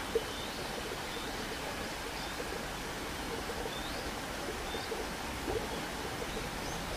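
Steady outdoor background hiss with a few faint, short bird chirps scattered through it, and a brief knock just after the start.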